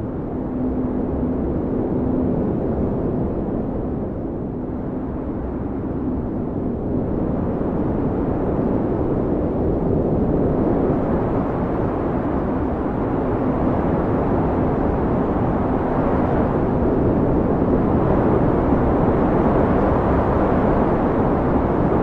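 Snowstorm wind blowing, a steady low rush that swells and eases in slow gusts and grows louder through the second half.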